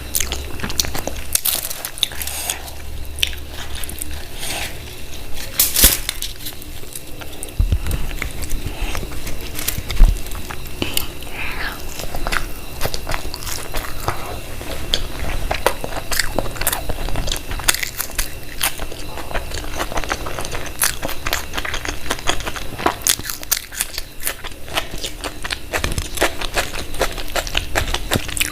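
Close-miked eating: a person biting and chewing food, with many short wet mouth clicks and occasional crunches.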